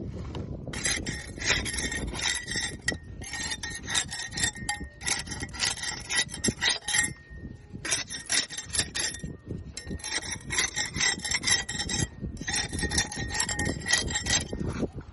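Barnacles being scraped off a boat hull: rapid back-and-forth scraping strokes in runs of a couple of seconds, broken by several short pauses.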